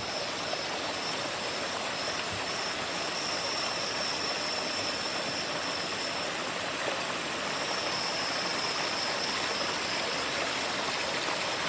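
Steady rush of flowing water, like a forest stream. A faint high thin tone sits above it, dropping out for a while in the middle and coming back.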